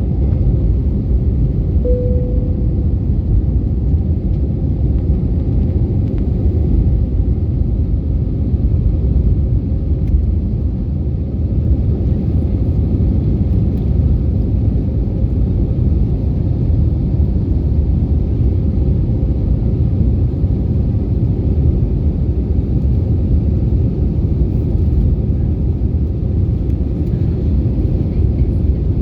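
Airbus A321neo airliner, a steady low rumble at an even level. A brief single tone sounds about two seconds in.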